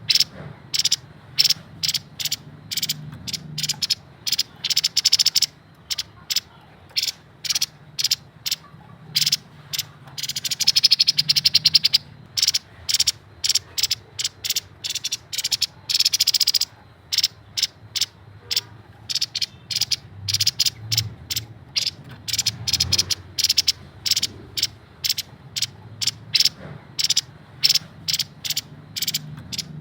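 Grey-headed babbler calling: a rapid series of short, sharp notes, several a second, broken by denser chattering runs about five, ten and sixteen seconds in.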